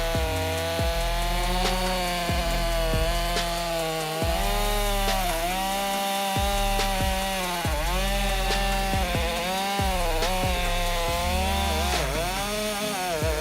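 A saw's motor running hard, its pitch sagging and recovering several times as it cuts into wood. Background music with a steady beat plays underneath.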